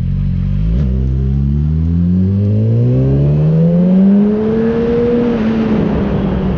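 Yamaha R6 sport bike's inline-four engine accelerating hard, its pitch climbing steadily for about four seconds after a brief blip near the start, then levelling off.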